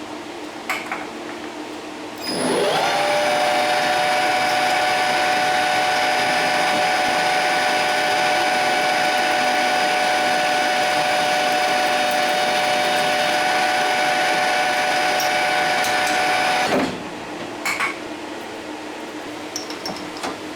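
A small high-speed electric power tool motor switches on about two seconds in, spins up quickly and runs at a steady whine for about fourteen seconds, then switches off and winds down. A few light clicks come just before it starts and just after it stops.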